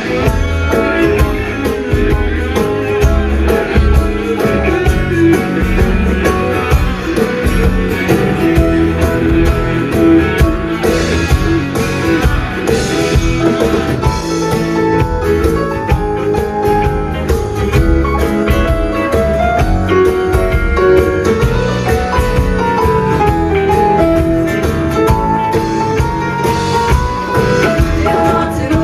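Live rock band playing an instrumental passage: electric guitar lead over bass and drum kit.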